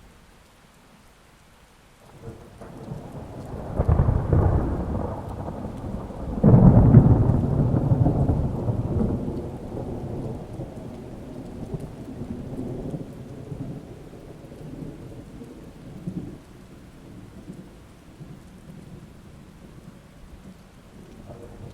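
A thunderclap in a rainstorm. The rumble builds about two seconds in and peaks twice, around four and seven seconds in, then rolls away slowly, leaving steady rain.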